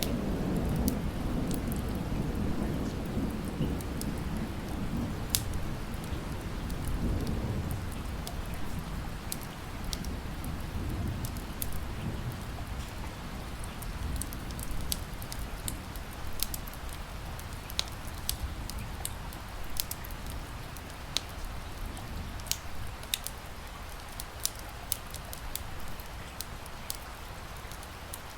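Steady rain with a wood fire crackling, sharp pops and snaps scattered throughout. A low rumble of thunder rolls through the first several seconds and fades away.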